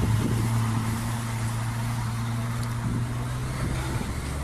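A motor vehicle's engine running with a steady hum, which drops to a lower pitch about four seconds in, over road noise.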